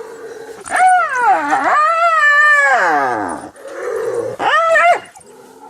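A long, wavering whining call from the wild dogs and hyena contesting the kill: the pitch drops, rises and falls again over about three seconds. A shorter call follows about a second later.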